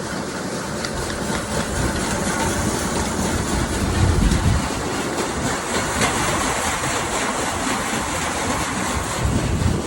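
A heavy engine running steadily, with two louder low rumbles, one about four seconds in and one near the end.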